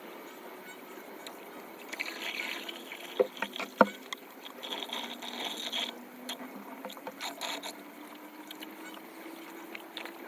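Floodwater splashing and trickling, with two sharp knocks a little over three seconds in, about half a second apart.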